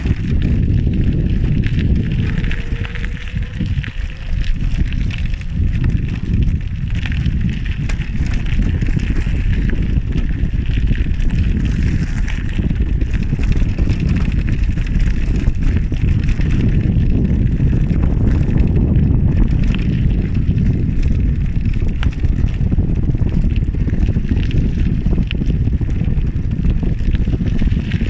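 Steady wind rumble on the microphone from a bicycle ride in motion, with riding noise under it.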